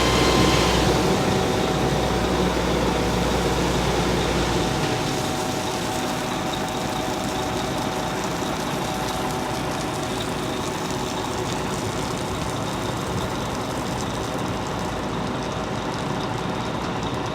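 Fire truck engine running steadily. Its deep rumble eases about a second in and again around five seconds in, then settles.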